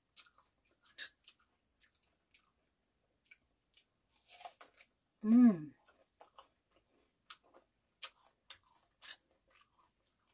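Close-up chewing and crunching of firm, crunchy persimmon slices, with scattered wet mouth clicks. About five seconds in there is a short vocal sound, falling in pitch, and it is the loudest thing.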